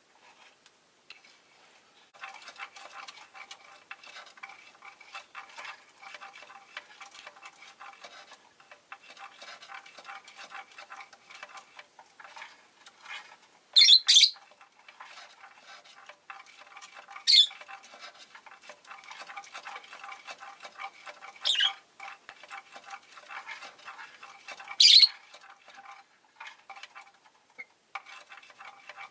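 Rose-faced lovebird making a rapid, soft ticking chatter, broken by four loud, shrill chirps a few seconds apart.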